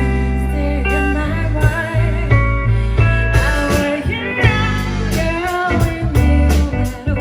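A band playing a song live, with guitar over a steady bass line and a singing voice.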